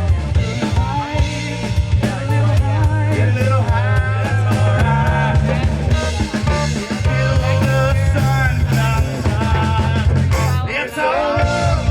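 Live band playing an upbeat rock groove on electric guitar, bass guitar, drum kit and percussion, with a heavy bass line and a wavering melodic line on top.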